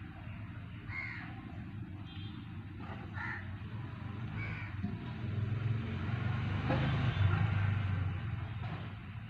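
Three short cawing bird calls in the first half, over a steady low hum. In the second half a broad rush of noise swells and fades, as of a vehicle passing.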